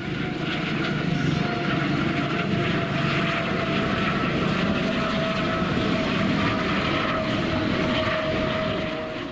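An engine running steadily, a continuous drone with a held whine over it.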